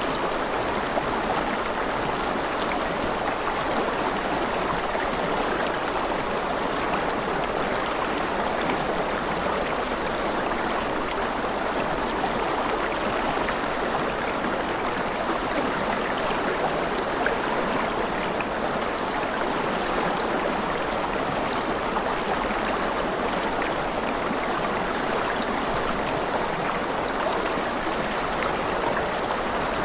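Rushing river water flowing steadily, an even, unbroken rush with no distinct splashes.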